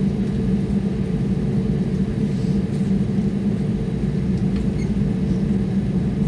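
Steady low rumble inside a jet airliner's cabin as it rolls along the runway just after landing, with a few faint ticks about five seconds in.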